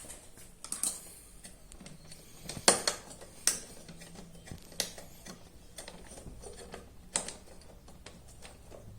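Scattered sharp metal clicks and taps, the loudest about three seconds in, as two wrenches knock and pry at a steel retaining clip on a washing machine's drive assembly to work it loose.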